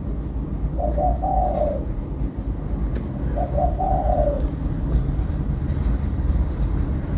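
A dove cooing, each call about a second long and repeated every two and a half to three seconds: twice, then a third call starting at the end, over a steady low rumble.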